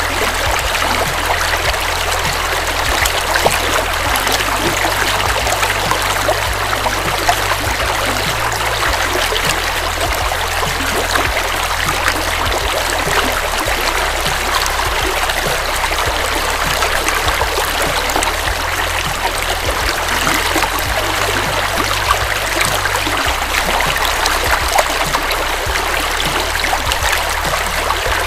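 River water flowing in a steady rush, with many small splashes and trickles throughout.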